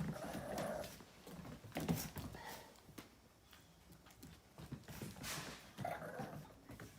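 Boston Terrier puppy and Russian Blue kitten at play: irregular scuffling and tapping of paws and claws, with a few short small sounds from the animals.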